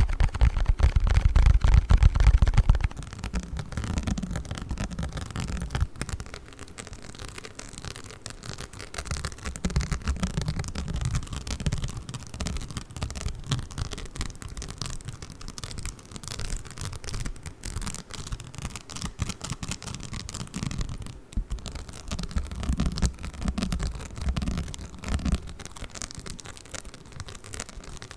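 Play foam (foam-bead modelling dough) squished and kneaded by hand close to the microphone, with dense fine crackling and soft squishes. The first three seconds carry heavier, lower handling noise that then drops away.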